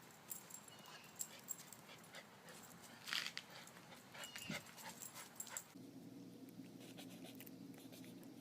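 Faint dog sounds: soft panting with a brief whimper a little after four seconds. From almost six seconds there is a steady low hum instead.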